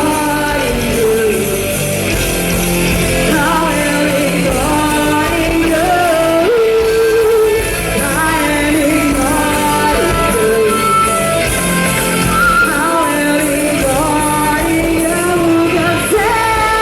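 Live rock band playing a song, with a lead vocal singing the melody over the band.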